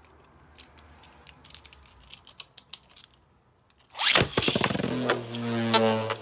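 Faint light clicks, then about four seconds in two Beyblades are launched into the stadium: a sudden whir that drops in pitch and settles into the steady hum of the spinning tops, with sharp clicks as they clash.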